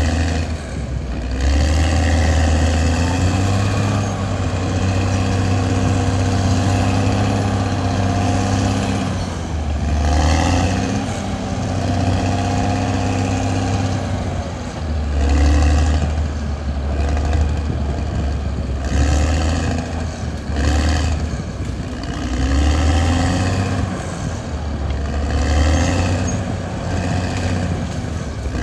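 Caterpillar D6R XL bulldozer's diesel engine running under load. Its pitch rises and falls every few seconds as the machine works.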